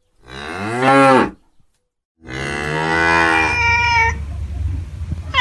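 Cow mooing twice: a short call that rises and falls in pitch, then a longer call about two seconds in that trails off.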